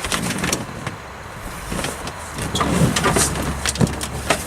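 Rustling, crinkling and scattered taps and knocks of a sheet of sound deadener being pushed and pressed into place against a car's roof panel, over a low steady hum.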